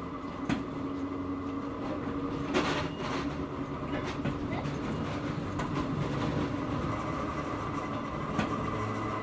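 Hakone Tozan Railway Moha 1 electric railcar running, heard from inside the car. Its nose-suspended traction motors give a steady hum and whine, with wheel clicks on the rail joints and one loud clunk about two and a half seconds in.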